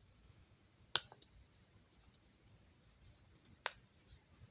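Two sharp pops, about a second in and again near the end, from the silicone bubbles of a mini pop-it fidget toy being pressed.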